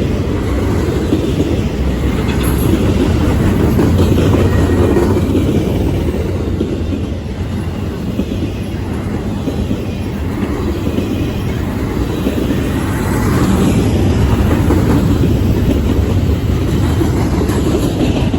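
Freight train cars rolling past, a steady loud rumble with wheels clacking over the rail joints.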